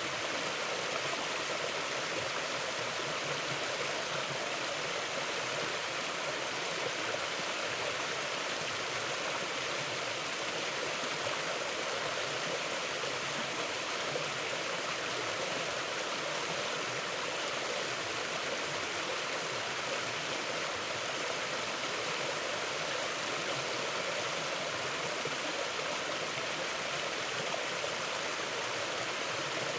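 Mountain river flowing: a steady, even rush of water with no pauses or changes.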